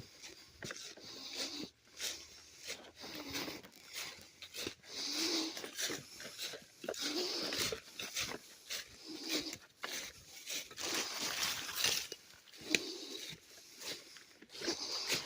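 Heavy, hoarse breathing of a person climbing a steep slope, one breath about every second or two, with scattered crunching footsteps.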